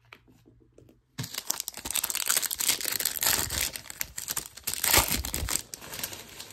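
Foil wrapper of a baseball card pack crinkling and tearing as it is ripped open. It starts about a second in, with a dense crackle that is loudest near the middle and eases off near the end.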